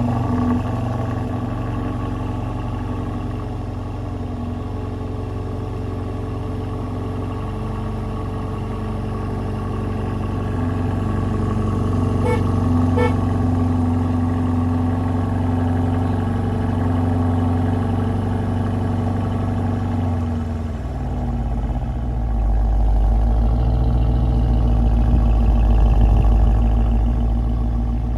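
BMW 550i Gran Turismo's 4.4-litre twin-turbo V8 idling steadily just after starting; about twenty seconds in the idle steps down to a lower, deeper note. Two faint clicks are heard around the middle.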